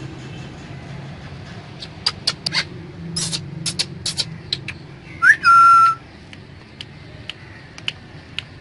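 Indian ringneck parrot giving a loud whistle about five seconds in: a quick upward sweep, then a note held steady for about half a second. It is preceded by a run of sharp clicks.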